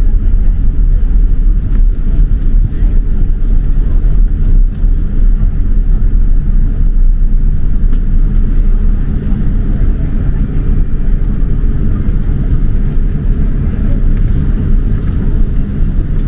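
Cabin noise of a Boeing 787-9 rolling along the ground after landing: a loud, steady low rumble of engines and wheels that eases off slightly near the end.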